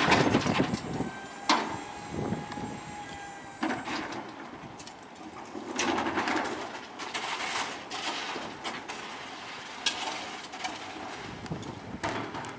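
Satellite refuse truck at work: a series of knocks and metal clatter. A steady high squeal runs for about two seconds near the start.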